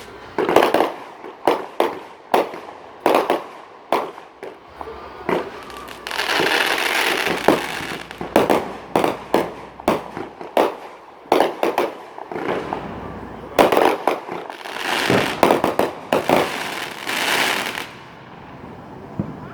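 Fireworks display: a rapid, irregular string of loud aerial shell bangs, with two longer stretches of dense crackling, and the barrage dies down near the end.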